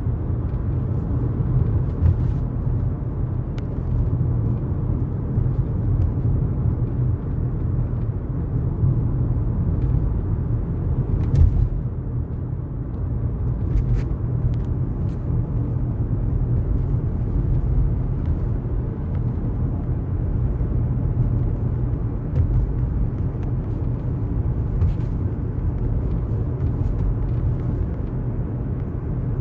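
Steady low rumble of a car travelling on a highway, with a few faint clicks.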